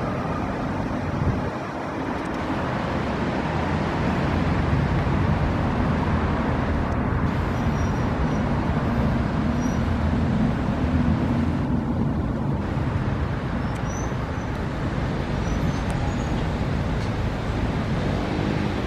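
Steady urban traffic noise: a continuous low rumble of engines that swells a little in the middle.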